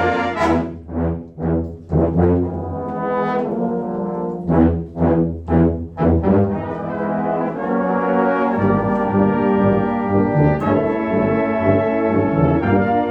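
Brass ensemble of trumpets, horns, trombones and low brass playing a series of short, accented chords, then held chords over a moving bass line from about two-thirds of the way through.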